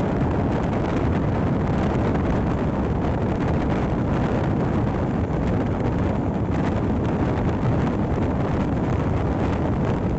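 Moving express train heard from inside an air-conditioned coach: a steady, continuous rumble of the wheels running on the rails.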